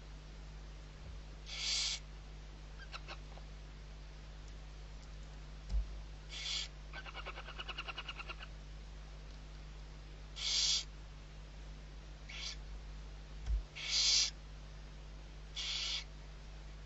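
Barn owl chick giving its hissing begging calls, short breathy hisses repeated every two to four seconds, with a fast rattling chatter in the middle. Two dull thumps.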